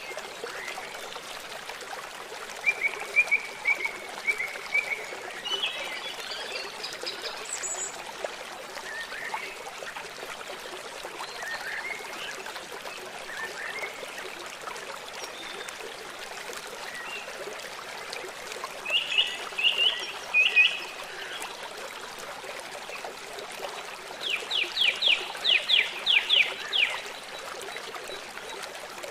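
Steady rush of flowing stream water under scattered songbird calls. Near the end a bird gives a quick run of about nine falling notes.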